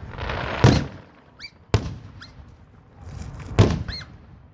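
Aerial fireworks exploding: three sharp, loud bangs, the first under a second in, the next near two seconds and the last past three and a half seconds. Brief high whistling tones come between the bangs.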